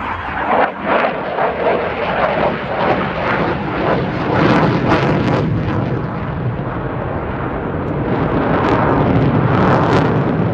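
Loud jet engine noise from an F-22 Raptor's twin Pratt & Whitney F119 turbofans, rough and crackling, swelling about four seconds in and again near the end.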